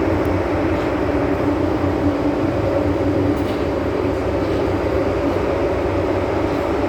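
MTR M-Train electric multiple unit running between stations: a steady, even rumble of wheels on rails and running gear.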